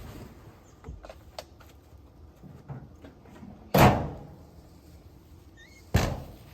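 A door slammed shut twice, about two seconds apart, each slam followed by a short ringing decay, with a few light knocks and clicks before the first.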